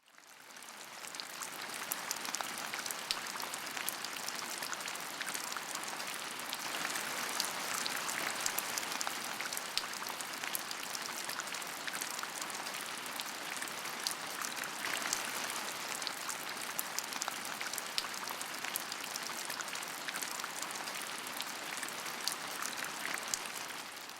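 Steady rain falling, a dense patter with many small drop ticks.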